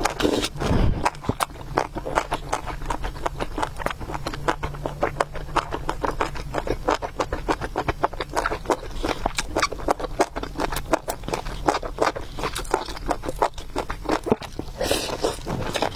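Close-miked eating sounds: wet chewing of noodles and food, with a dense run of quick mouth clicks and smacks.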